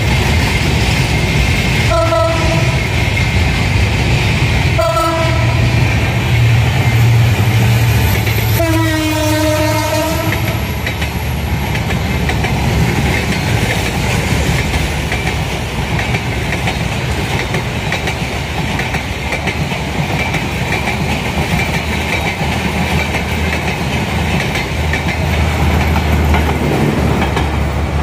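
Diesel locomotive horn sounding two short blasts and then a longer one, over the steady rumble and clickety-clack of an express train running along the track.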